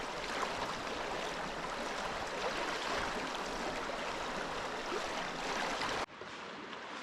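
Steady rushing of a nearby stream, an even noise with no rhythm, cutting off abruptly about six seconds in.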